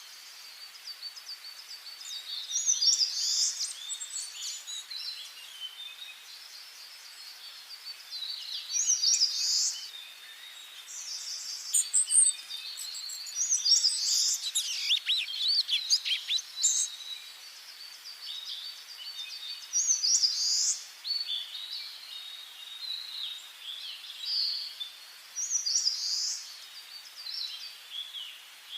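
Several small songbirds singing in a forest, short bright phrases every few seconds over a faint steady hiss, with a busier stretch of overlapping song about halfway through.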